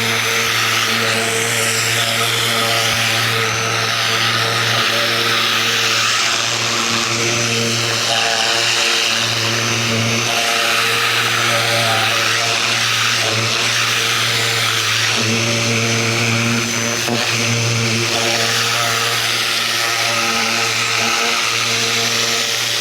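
Ryobi 2000 PSI electric pressure washer running steadily under load, its motor and pump humming while the spray hisses against the fence.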